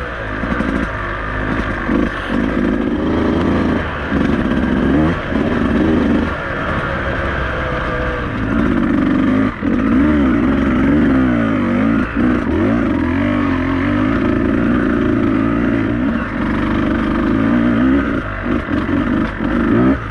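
Beta 200RR two-stroke enduro motorcycle engine being ridden on a trail, the revs rising and falling over and over as the throttle is worked, with a few short knocks.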